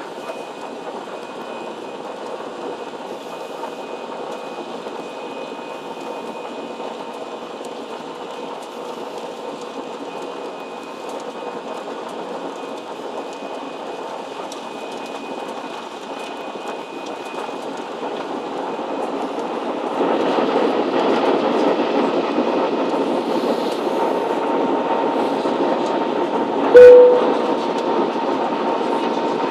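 Jet engines of a Ryanair Boeing 737 heard from inside the cabin, a steady rumble that grows louder from about 18 s and steps up sharply about 20 s in as the engines are brought up to takeoff power. A short loud blip sounds near the end.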